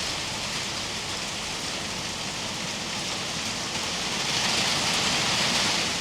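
Rain pouring down in a thunderstorm, a steady hiss that swells a little louder near the end.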